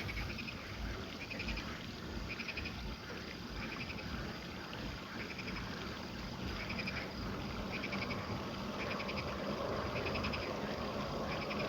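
Night-time chorus of insects and frogs: short pulsed chirps repeating about once a second over a steady high trilling, with a low rumbling noise underneath that grows louder from about eight seconds in.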